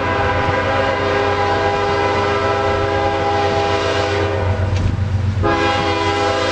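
Locomotive air horn on a Norfolk Southern Triple Crown RoadRailer train, sounding a long chord of several notes. It breaks off about four seconds in and sounds again about a second later, over a low rumble from the train.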